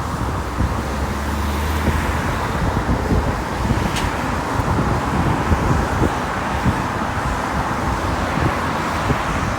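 Road traffic on a street: vehicles running past in a continuous roar, with a steady low engine hum through the first two seconds.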